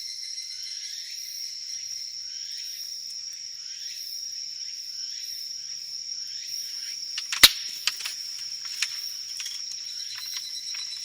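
A chorus of insects singing in steady high-pitched trills, over which a wood campfire crackles: one sharp, loud pop about seven seconds in, then a few smaller pops.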